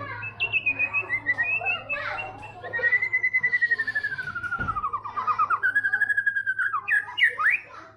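White-rumped shama singing: varied whistled phrases, then a long rapid trill that slides down in pitch and back up, ending in a few quick upward-sweeping notes. A steady low hum runs underneath.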